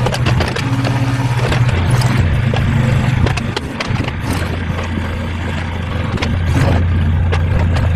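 Mini excavator's engine running, its pitch changing about halfway through, with scattered clanks and scrapes from the machine working.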